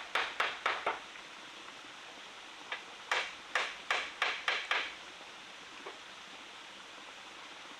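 Quick, sharp tool blows on wood at about four a second: a short run at the start and a longer run of about seven blows a few seconds in. They sit over the steady rush of a forest stream.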